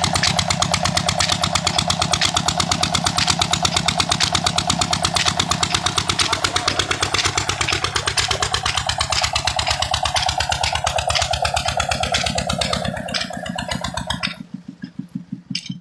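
Petter diesel engine driving a tubewell pump, running with a rapid, even beat. About fourteen seconds in, the loud running drops away and fainter, slower beats follow.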